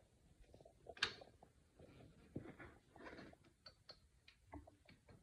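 Faint, scattered clicks and light knocks of metal parts being handled, with one sharper click about a second in, as the tractor's telescopic stabilizer links are fitted.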